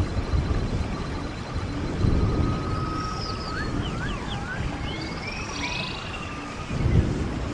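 Stream water running with a low, uneven rush, and a bird singing a string of whistled, sliding notes from about three to six seconds in.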